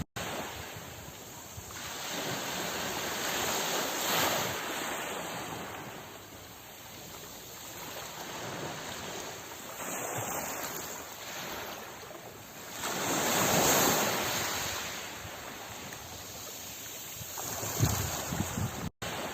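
Ocean waves breaking and washing ashore in slow swells a few seconds apart, the loudest surge about two-thirds of the way through. The sound cuts out for an instant just after the start and again near the end.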